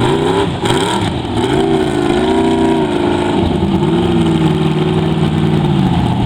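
Mega truck engine revving, its pitch rising and falling, then held up for a second or two at a time.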